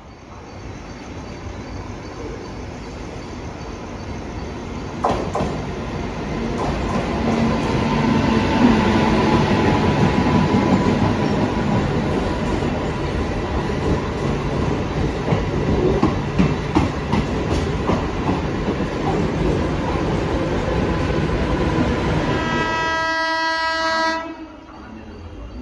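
Mumbai suburban EMU local train running through a station: a rumble and rail-joint clatter that build over several seconds and hold loud. Near the end a train horn sounds for about two seconds and cuts off suddenly.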